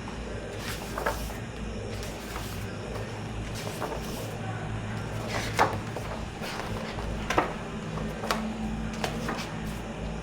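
Pages of a book being turned one after another, each turn a short swish or flick. The two loudest come about halfway through and again about two seconds later. A steady low hum runs underneath.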